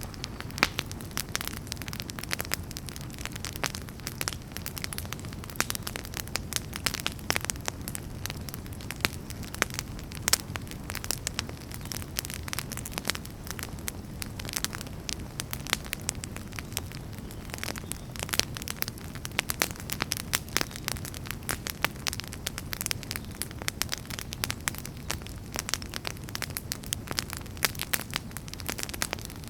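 Wood fire burning in a fireplace: a steady low rumble of the flames under dense, irregular crackles and pops.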